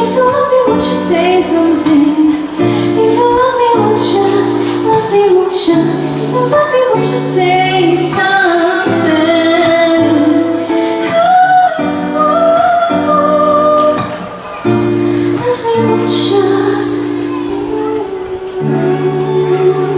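A woman singing a song live, her voice gliding and wavering over an accompaniment of steady held chords.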